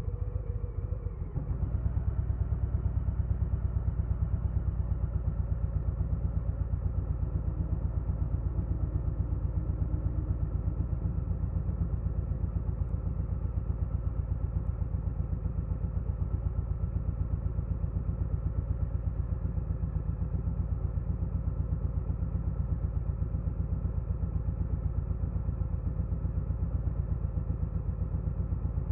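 2022 Harley-Davidson Low Rider S's Milwaukee-Eight 117 V-twin running steadily, its exhaust pulses coming in an even beat. It gets louder about a second and a half in, then holds at a steady pace.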